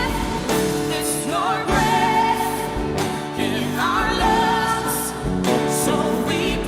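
Live worship music: a lead voice singing over a sustained band accompaniment, with chords changing every second or so.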